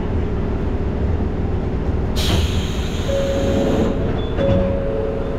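Electric train running, heard from inside the front car: a steady rumble, then a hiss of air about two seconds in lasting nearly two seconds, followed by a high, steady squeal that breaks off once briefly.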